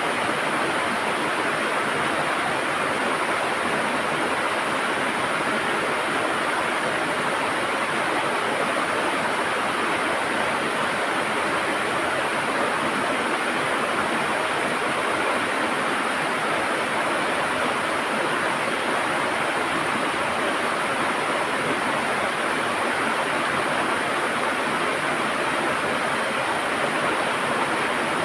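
River water rushing and gurgling over rocks in a steady, unbroken flow.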